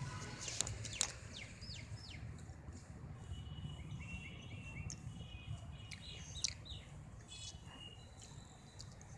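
Small birds chirping in the background in short high calls and quick falling notes, over a low steady hum, with a few sharp clicks in the first second.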